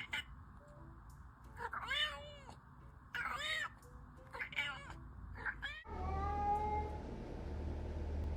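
Domestic cat meowing: a string of short meows, each rising then falling in pitch, about one a second, followed by a longer drawn-out meow over a low hum.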